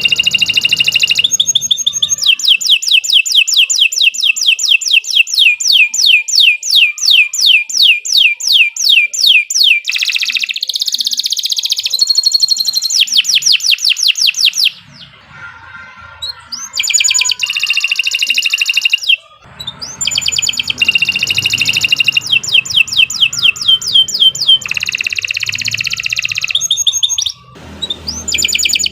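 Domestic canary singing a long, loud song of rapid trills and series of repeated sweeping notes. It breaks off briefly about fifteen seconds in and again near the end before resuming.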